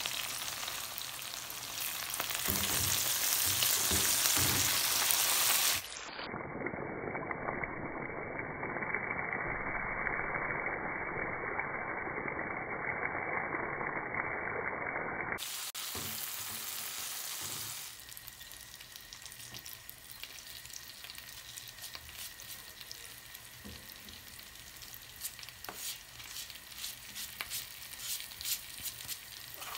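Green beans sizzling in hot vegetable oil in a nonstick frying pan while being stirred with tongs. The sizzle is loudest in the first few seconds and settles to a quieter hiss with scattered crackles in the second half.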